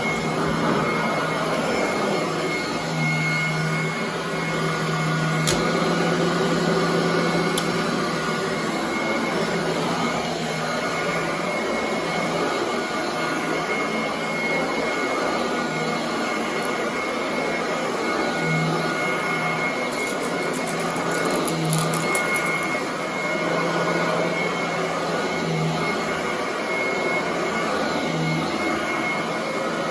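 Royal commercial vacuum cleaner running steadily as it is pushed over carpet, with a constant motor whine and a low hum that swells and fades with the strokes. A brief crackle of clicks about two-thirds of the way through.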